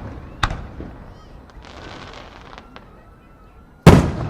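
Aerial firework shells bursting. A sharp bang comes about half a second in, and a second, louder boom near the end, each fading with an echoing tail. Between them is a quieter spell with faint crackles.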